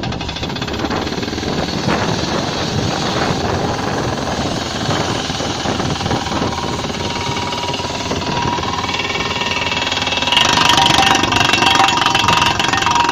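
Pneumatic drilling rig hammering continuously, a rapid percussive rattle over a running engine, growing louder and harsher about ten seconds in.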